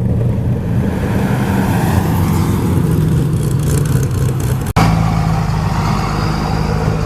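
Car engine running with a steady low drone. The sound cuts out for an instant about two-thirds of the way through, then carries on.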